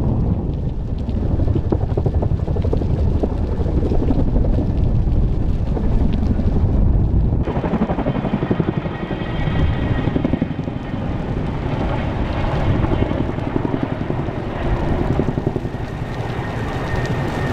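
Helicopter flying, a loud, steady low rumble. About seven and a half seconds in the sound changes abruptly to a brighter hiss with a faint high whine.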